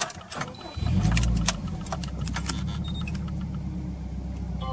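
Subaru Impreza WRX STI (GDB) EJ207 turbocharged flat-four starting through an aftermarket A'PEXi muffler: a short crank with clicks, the engine catches about a second in with a brief flare in revs, then settles into a steady idle.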